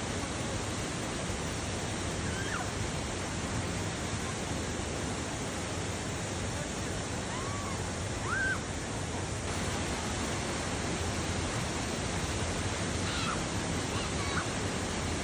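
Steady rush of river water pouring over a waterfall or cascade, with a few faint short high calls heard over it now and then.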